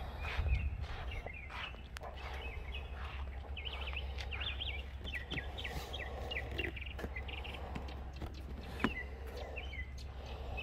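Songbirds chirping and singing, with a run of quick trilling notes a few seconds in, over a low steady rumble. A single sharp click sounds late on.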